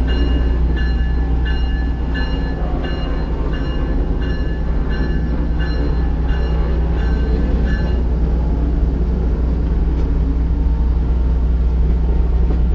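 Diesel locomotive running with a steady low engine rumble, while a bell rings about one and a half times a second, stopping about eight seconds in.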